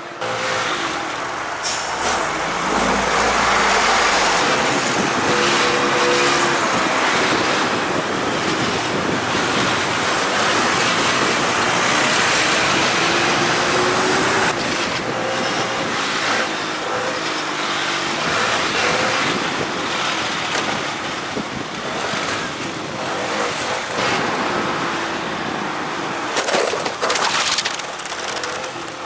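Motorbike engine running under way, with heavy wind and road noise over it; its pitch rises and falls as the speed changes.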